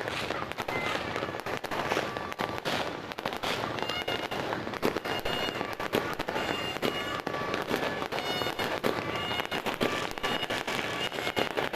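Dense New Year firecrackers and fireworks going off, a continuous irregular crackle of many sharp bangs. From about four seconds in, short high tones repeat over the bangs.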